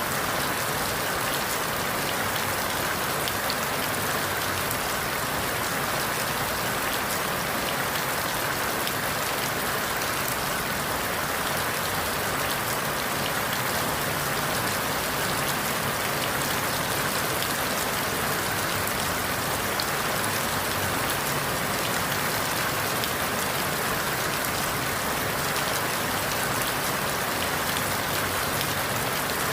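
Steady rain falling through forest leaves, an even patter of many fine drops with no breaks or sudden sounds.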